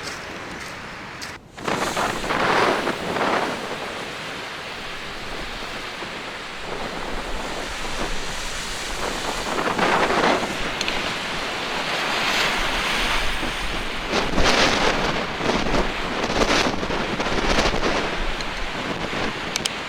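Heavy storm surf breaking along the coast, with strong mistral wind buffeting the microphone. Loud surges of wind and water come and go every few seconds.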